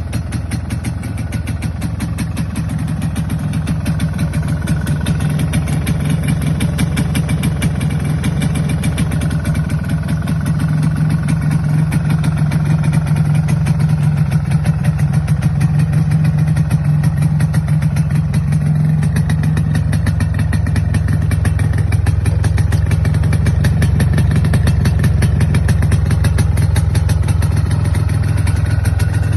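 MZ ETZ 250's single-cylinder two-stroke engine running steadily at idle, its note settling a little lower about two-thirds of the way through.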